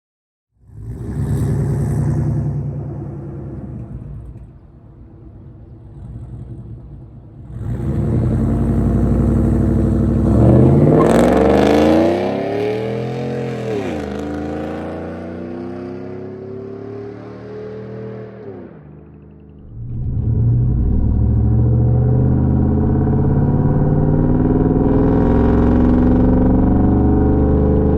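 A 5.3-litre V8 pickup with long-tube headers, full 3-inch exhaust and a MagnaFlow bullet muffler, running loud and revving. The pitch climbs and falls back about ten to fourteen seconds in, then settles into a steady, loud drone from about twenty seconds on.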